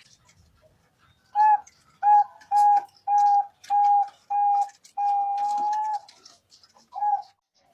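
Zebra dove (perkutut) cooing: a run of six short, clear notes about half a second apart, then one long drawn-out note, then a final short note.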